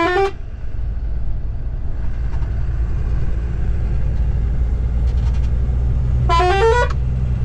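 Tata Signa 4225 truck running steadily on the road with a low engine drone. A vehicle horn sounds briefly right at the start and again for under a second about six seconds in, its pitch rising slightly.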